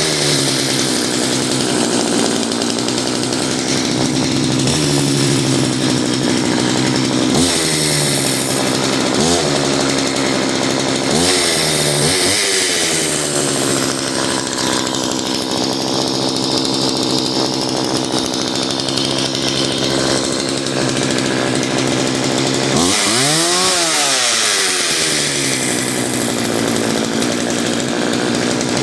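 McCulloch Mac 3200 two-stroke chainsaw engine running just after starting, mostly idling with several quick throttle blips and one longer rev up and back down near the end; it runs well.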